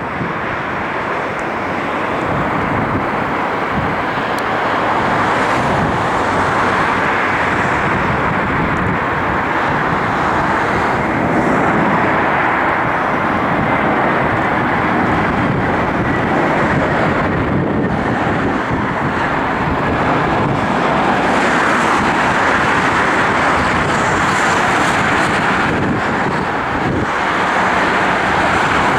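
Jet airliner engine noise: a loud, steady rushing sound that builds over the first few seconds and then holds.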